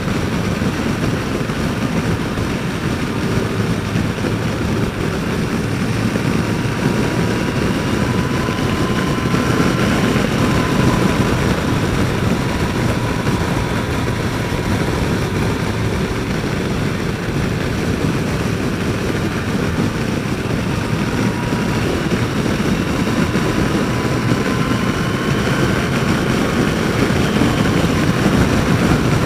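Yamaha FJR1300 inline-four motorcycle cruising, heard from the rider's helmet mic: steady wind rush and road noise over an engine note that drifts slowly up and down with speed.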